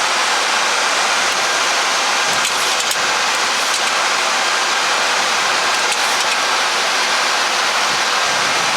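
Steady, even rushing air noise in the flight deck of a Boeing 737 MAX in descent.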